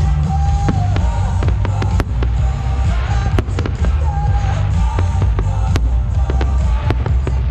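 Fireworks going off in an irregular run of sharp bangs and crackles, over loud music with a heavy, steady bass.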